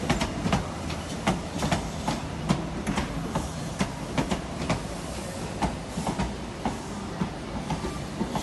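Train wheels clacking over rail joints and pointwork as a train moves through the station: an irregular run of sharp clacks, two or three a second, over a steady low rumble.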